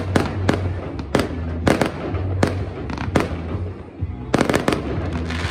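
Fireworks bursting overhead: a fast, irregular run of sharp bangs and crackles, a few each second, easing briefly near the end and then a quick cluster of several bangs.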